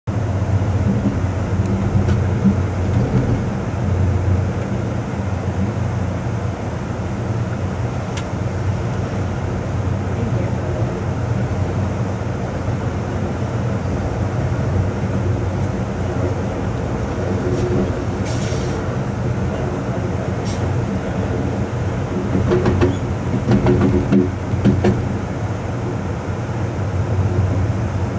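Amtrak Coast Starlight passenger train running along the track, heard from its rear end: a steady rumble of wheels on rails with scattered clicks, a little louder for a few seconds about two thirds of the way through.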